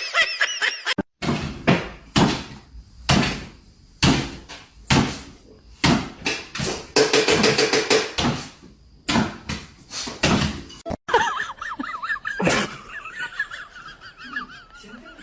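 A series of sharp thuds or bangs, roughly one a second for about ten seconds, then a wavering high-pitched sound near the end.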